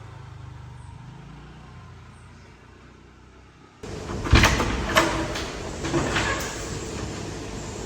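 A low rumble fades away. About four seconds in it cuts to a louder room sound with several sharp knocks and clatters, the kind a door or cupboard being handled makes.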